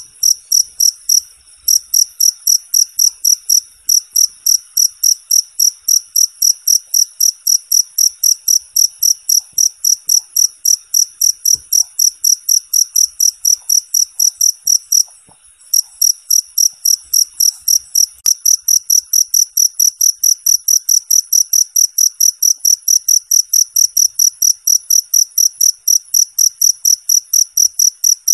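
Cricket chirping loudly in a fast, even series of high-pitched chirps, about four to five a second, with two brief breaks: one about one and a half seconds in and a slightly longer one about halfway through.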